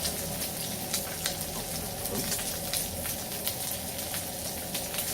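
Pork belly sizzling on a hot grill pan over a burner turned up high, the fat spitting with a steady hiss and frequent sharp crackles and pops.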